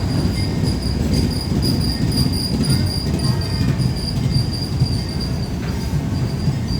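A passenger train rolling through a station, a steady low rumble of wheels on the rails with a thin, steady high-pitched squeal over it.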